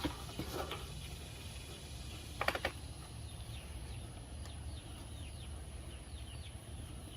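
A few knocks and clicks as the portable tankless water heater is turned over and handled, the loudest a short clatter about two and a half seconds in. Small birds chirp quickly in the background through the second half.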